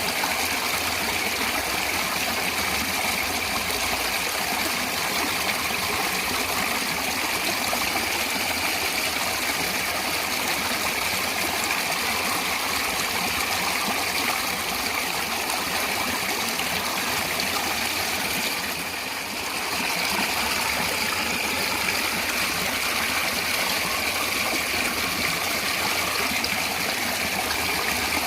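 Natural flowing water running steadily, with a brief slight drop in level about two-thirds of the way through.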